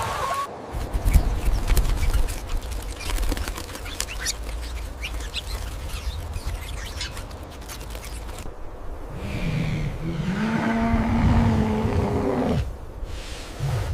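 Farm animal sounds: a run of rapid clicks and flutter over a low rumble, then a long, low pitched call starting about nine seconds in.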